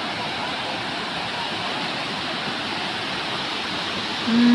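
Waterfall rushing steadily, the water pouring over the falls in a constant hiss. Near the end a person's voice briefly cuts in with a falling tone.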